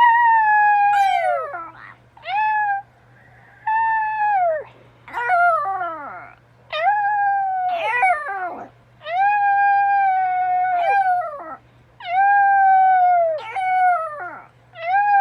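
Husky howling in a string of long calls, each about one to two seconds, held fairly level and then falling away in pitch at the end, with short gaps between. In places two howls overlap.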